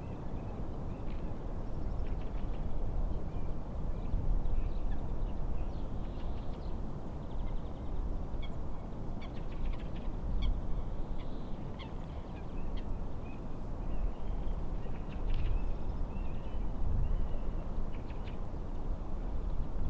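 Wind and waves at a lake make a steady low rumble, with birds calling in short, scattered notes over it.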